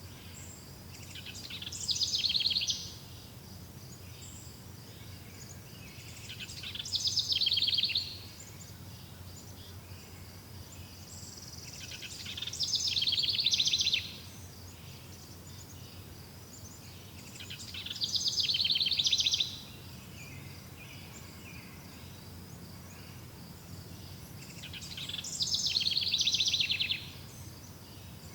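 A songbird repeating the same fast, high trilled song five times, roughly every five to six seconds. Each song lasts about two seconds, grows louder and then stops abruptly. A faint, steady high-pitched insect drone runs underneath.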